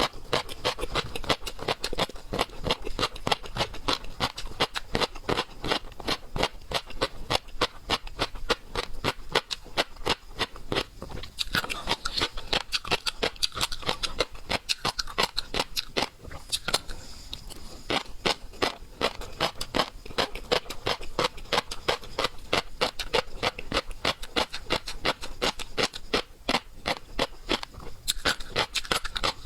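A person chewing and biting seafood close to the microphone: a dense, unbroken run of wet clicks, smacks and crunches, several a second.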